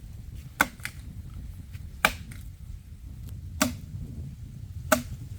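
Four sharp chopping strikes of a foice (billhook) biting into dry wood, evenly spaced about one and a half seconds apart.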